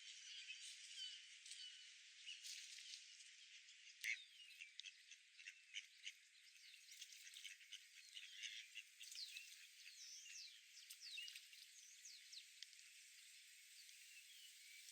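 Faint chorus of small birds chirping and twittering in quick, overlapping short calls, with a brief sharp sound about four seconds in.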